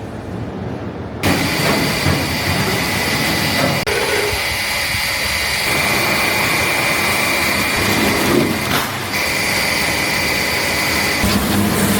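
Running machinery: a dense, steady mechanical noise with a constant high whine. It gets suddenly louder about a second in and changes character again a few times.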